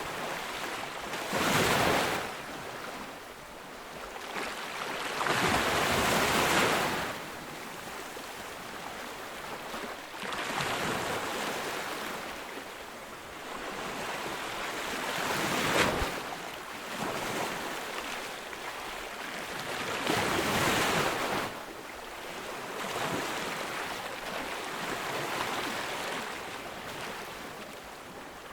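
Ocean surf: waves breaking on a beach, a louder rush of breaking water about every five seconds over a steady wash.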